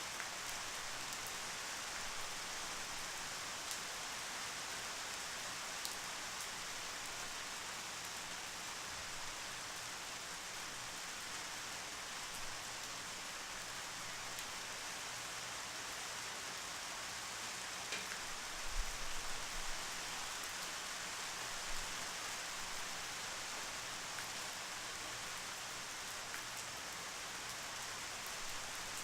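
Steady rain falling and pattering on surfaces, an even hiss of drops. About two-thirds of the way in, a few dull low thumps stand out briefly above the rain.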